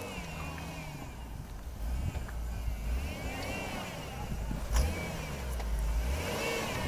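Four-wheel-drive vehicle stuck in deep snow, its engine revving as the tires spin without traction, with a whine that rises and falls several times. A single sharp knock about five seconds in.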